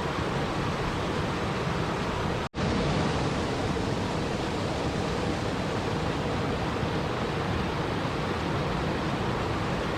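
Steady, even rushing-water noise that cuts out for an instant about two and a half seconds in, then resumes.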